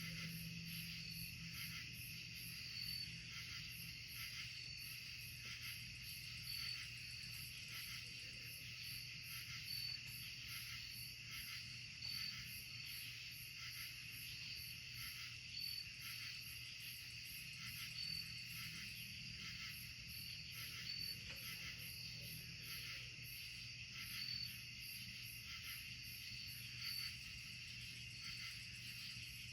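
Night insect chorus of crickets and other singing insects: a steady high trilling with a brighter chirp repeating about every two seconds. A faint low steady hum runs underneath.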